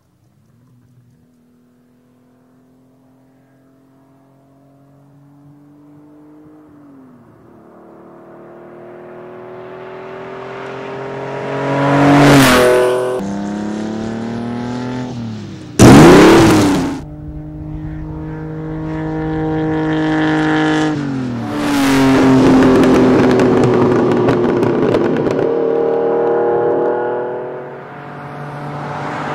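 Lamborghini Countach LP400S's carburetted 4.0-litre V12 accelerating hard, growing from faint to loud as it approaches. Its pitch climbs in each gear and drops at each upshift. About halfway through it passes close with a sharp fall in pitch, and it approaches again near the end.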